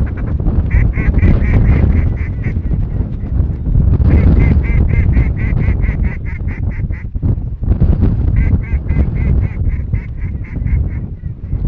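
Ducks quacking in three runs of quick, evenly repeated calls, over a heavy low rumble.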